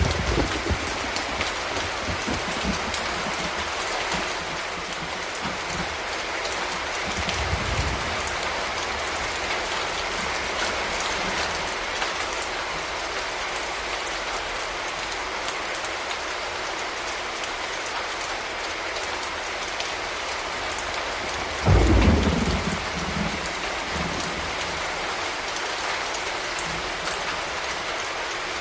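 Steady rain falling on hard surfaces, a constant hiss. A few low thuds break through it, the loudest about 22 seconds in.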